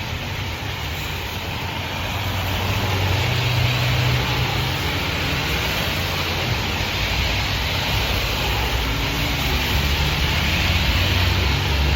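Steady outdoor road and wind noise on a wet day: a hiss with a fluctuating low rumble underneath, growing louder about two seconds in.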